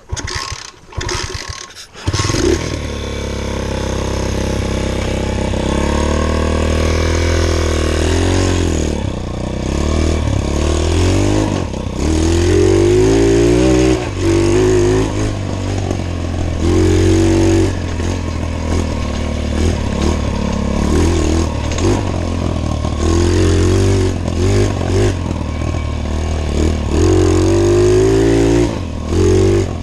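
Pit bike engine running as the bike is ridden, its pitch rising and falling over and over as the throttle is opened and let off. The owner says it won't really rev out. A few knocks are heard in the first two seconds before the engine note takes over.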